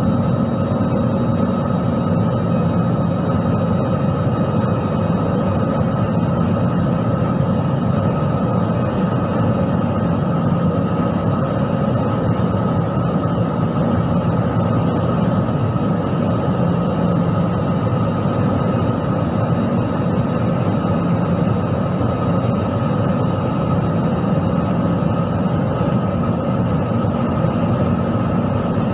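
Jet airliner cabin noise: the engines and airflow heard from a window seat as a steady, unchanging rush with a few steady whining tones on top, the aircraft airborne and climbing or cruising after takeoff.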